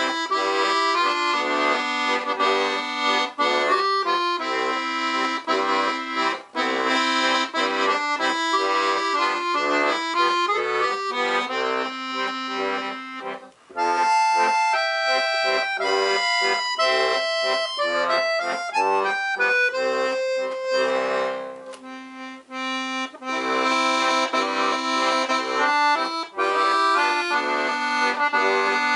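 Weltmeister Monte helikon-bass piano accordion playing a tune, melody over chords and bass notes, on its single-reed registers. The playing breaks off briefly twice, about halfway and about three quarters of the way through.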